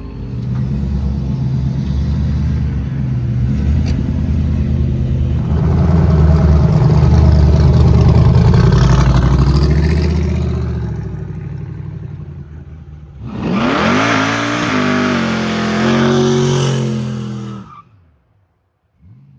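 Car engine running hard under load for about ten seconds, then fading. A second burst of revving, its pitch climbing and falling, follows for a few seconds and cuts off shortly before the end.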